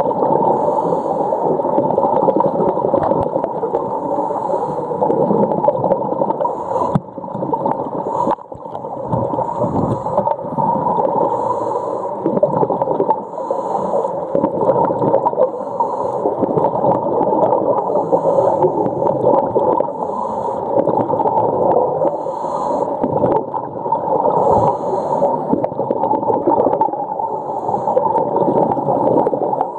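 Muffled gurgling and churning water heard by a camera held underwater, a steady dense wash without clear tones.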